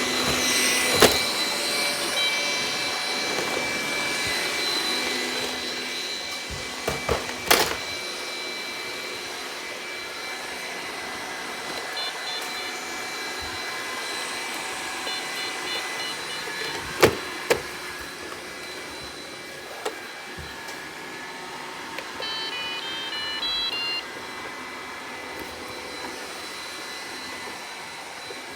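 Robot vacuum running with a steady whir that slowly grows fainter. There are a few sharp knocks and several short runs of high electronic beeps.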